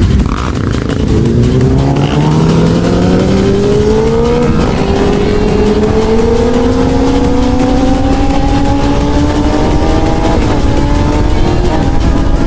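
Honda CB1000R's inline-four engine accelerating hard through the gears: the pitch climbs, drops at an upshift about four and a half seconds in, then climbs slowly in the next gear until another shift near the end. Heavy wind rush runs underneath.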